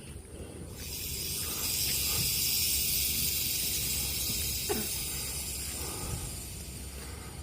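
Loud hiss that starts about a second in, swells, then slowly fades over several seconds; the hikers take it for a king cobra close by.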